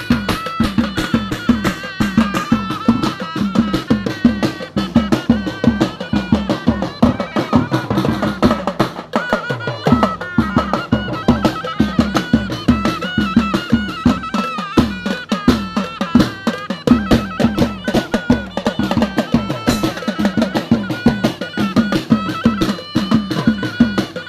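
Northern Thai Lanna procession music: drums beat a fast, steady rhythm under a high, wavering melody line.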